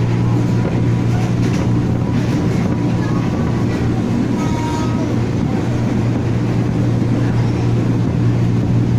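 Former JR East 205 series electric commuter train running at speed, heard from inside the car: a steady low hum over a continuous rumble.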